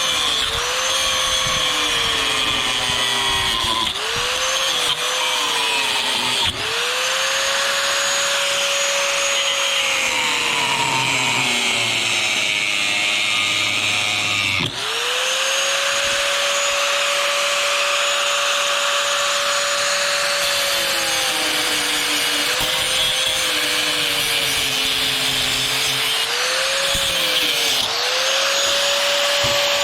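Electric angle grinder running and cutting into metal, with a loud hissing grind over the motor's whine. The whine sags in pitch under load several times, most deeply between about ten and fourteen seconds in, and dips sharply twice, then climbs back to full speed.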